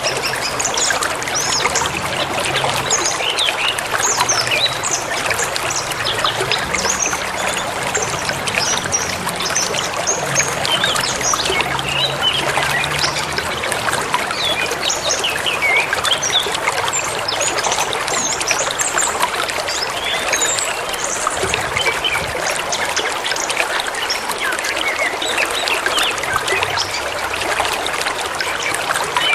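Forest stream running steadily over stones, with many small birds chirping and calling throughout.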